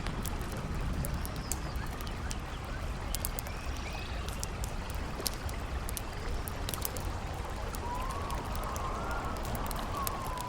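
Campfire crackling with frequent sharp pops over a steady rushing bed of river water and wind. In the last two seconds a wavering whistle rises and falls, the howl of the wind.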